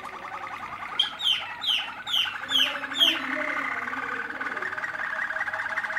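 Malinois (Waterslager) canaries calling: a steady, fast-pulsing trill throughout, with six sharp falling chirps from about one to three seconds in.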